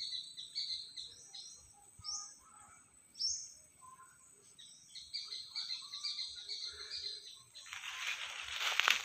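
Birds calling in the trees: a run of short high chirps repeated several times a second, with two louder downward-sweeping notes about two and three seconds in. Near the end a broad rustling noise comes in, like leaves and undergrowth being brushed through.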